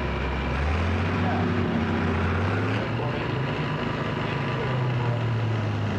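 Competition pulling tractor's engine running under load, its low drone stepping up in pitch about a second in.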